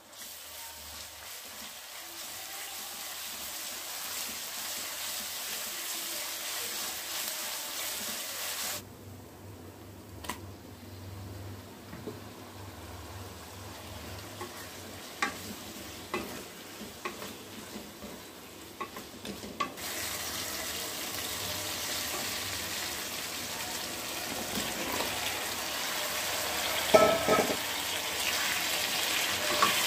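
Onions and vegetables sizzling in hot oil in a kadai, stirred with a wooden spatula that scrapes and taps the pan. The sizzle drops quieter for a stretch, with scattered spatula clicks, then grows louder again, with a few heavier knocks near the end.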